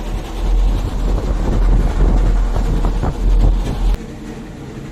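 Loud, steady low rumble on the microphone that cuts off suddenly about four seconds in.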